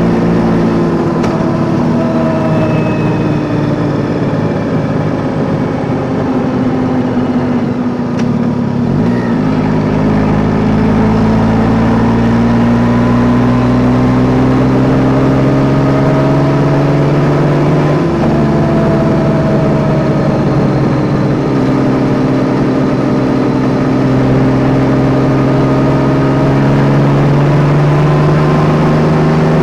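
Yamaha Tracer 9 GT's three-cylinder engine on the move: its pitch falls for the first several seconds as the bike slows, then rises steadily as it accelerates, with two quick drops in pitch near the middle where gears are shifted up.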